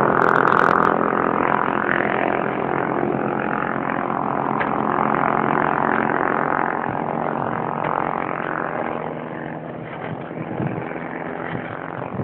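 Motor vehicle engine running steadily, easing off and getting quieter in the last few seconds.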